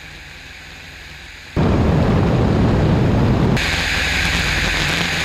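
In-flight engine and wind noise of a Lockwood AirCam climbing. A low steady hum gives way suddenly, about one and a half seconds in, to a loud low rumbling rush of wind on the microphone. About two seconds later it changes abruptly to a steadier rush with a strong high hiss.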